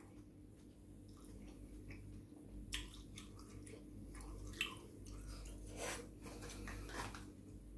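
Faint chewing of a mouthful of cheese and tomato ravioli, with scattered soft, wet mouth clicks.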